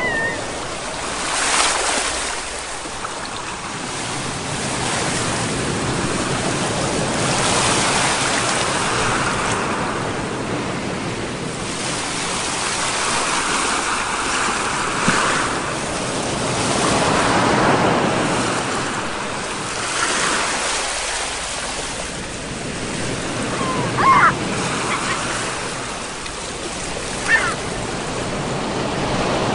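Sea waves breaking and washing ashore, the surf swelling and fading every few seconds. Two brief high rising calls sound near the end.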